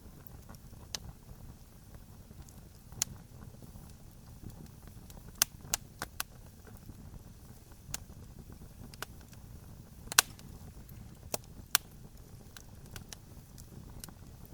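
Campfire crackling: irregular sharp pops and snaps from the burning wood, the loudest about ten seconds in, over a low steady rumble.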